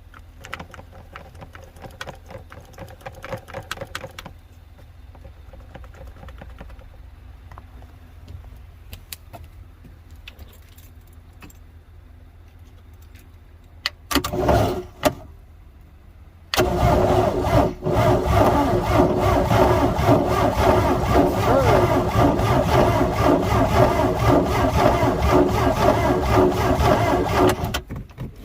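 Boat engine turned over by its starter motor: a short crank about halfway through, then a long steady crank of about eleven seconds that cuts off abruptly near the end, without the engine catching.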